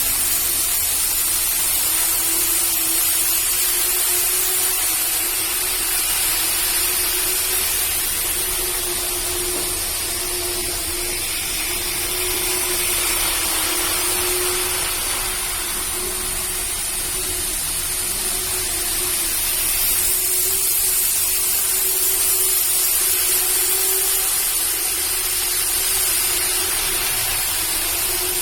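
Model Shinkansen trains running on a model railway layout: a steady rolling hiss of wheels on track with a thin, slightly wavering motor whine.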